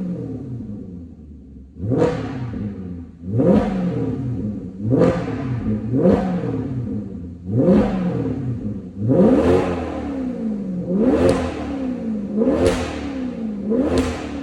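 Maserati Quattroporte Sport GT S's 4.7-litre V8 and exhaust, blipped about nine times. Each rev rises sharply, then falls back to idle.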